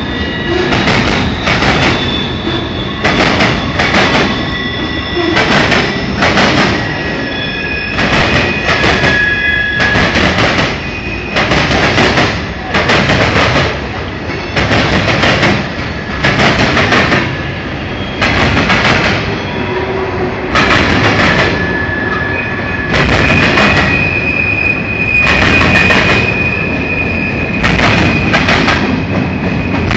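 Freight cars of a mixed freight train rolling past, their wheels clattering about once a second, with high steady wheel squeal coming and going over the clatter.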